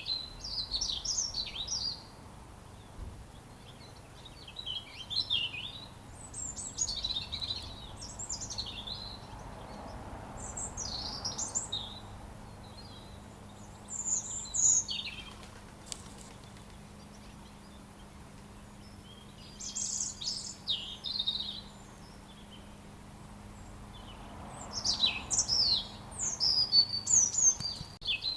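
A robin singing: short bouts of quick, high twittering phrases with pauses of a few seconds between, the last bout the loudest. A faint steady low hum runs underneath.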